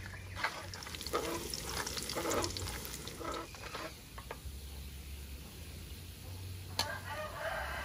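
Food sizzling in a steel wok, with a metal ladle scraping and clattering against the pan as it is stirred, mostly in the first few seconds.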